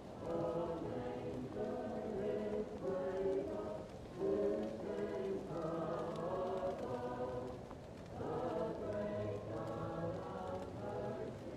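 Choir singing a slow lullaby-like carol, muffled as if heard from another room, in long phrases that dip briefly about four and eight seconds in. A faint fireplace crackle runs beneath.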